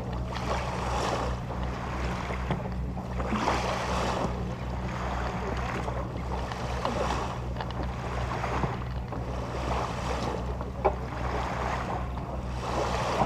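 Boat engine running with a steady low hum, while the rush of water and wind swells and fades every second or two. There is a single sharp knock about 11 seconds in.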